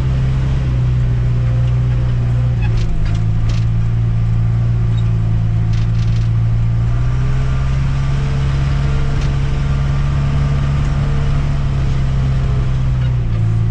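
Tractor loader backhoe's diesel engine running steadily while the machine drives along in fourth gear, its engine note shifting slightly a couple of times. A few short rattles and knocks come through about three and six seconds in.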